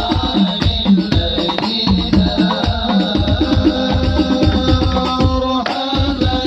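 Indonesian hadroh-style percussion music: darbuka and frame drums playing a 'roll tam' pattern meant to imitate a motorbike exhaust, with a held melody over the drumming.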